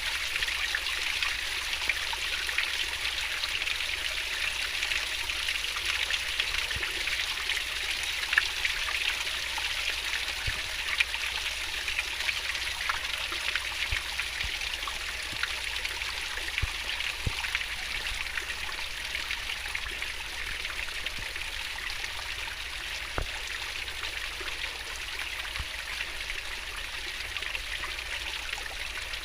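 Fast-flowing stream babbling and gurgling over rocks: a steady rush of water with small splashes scattered through it.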